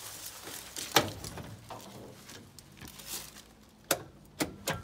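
Starter on a 1965 Chevrolet C10 small-block: a sharp click about a second in, then a faint steady hum as the starter labours, with a few more clicks near the end. The starter engages too weakly to turn the flywheel well, which the crew puts down to a tired starter, a seized engine, or both.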